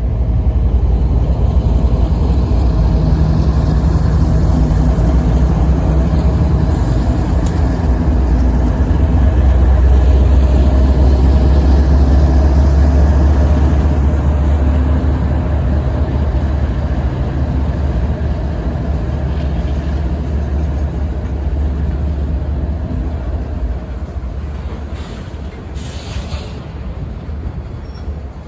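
Freight train passing, a loud low rumble of the locomotive and rolling cars that swells to its loudest about ten seconds in and eases off toward the end.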